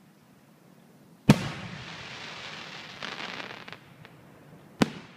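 Aerial firework shells bursting: two sharp bangs about three and a half seconds apart, with a fading crackling hiss after the first.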